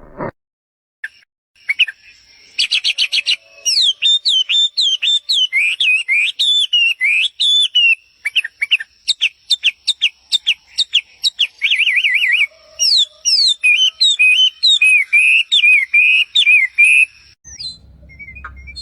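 A songbird singing a long, fast, varied song of quick rising and falling notes. It starts about two seconds in and stops shortly before the end.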